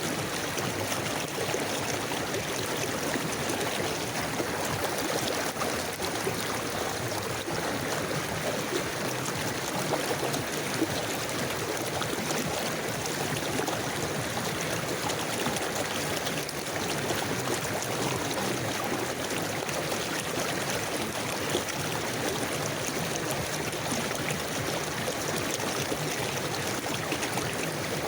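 River water flowing steadily over stones, an even rushing with a light babble and trickle.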